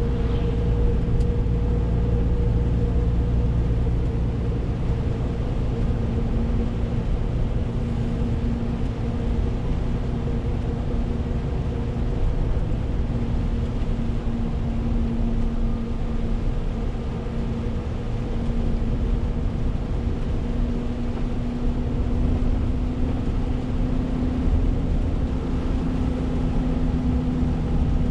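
Renault T520 truck's 13-litre straight-six diesel running steadily while driving, a low engine drone under a constant hiss of road noise. The engine note holds nearly level, edging a little higher near the end.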